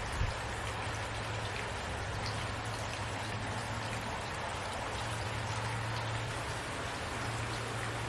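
Steady rain falling, with a constant hiss and scattered drops, and a low rumble underneath.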